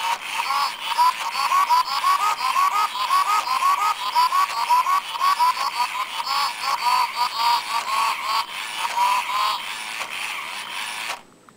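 Chirpy Chi robot bird toy playing one of its electronic songs: a fast run of short chirping notes, about three to four a second, that stops abruptly near the end.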